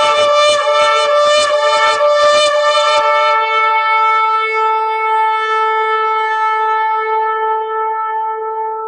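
A shofar sounding a quick run of short staccato blasts, about four a second for the first three seconds. It then holds one long, steady note that slowly weakens.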